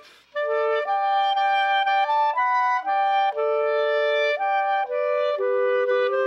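Two clarinets playing a duet, two melodic lines moving in steady notes together. There is a brief break at the very start before both come back in.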